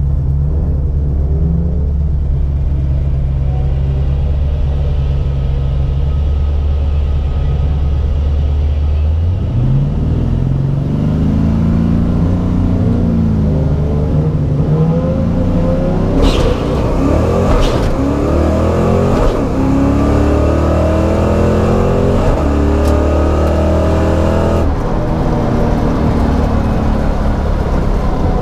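Car engine running at a steady low note, then about nine seconds in accelerating hard, its pitch climbing and dropping back several times as it runs up through the gears. Two sharp clicks come partway through, and the sound changes near the end.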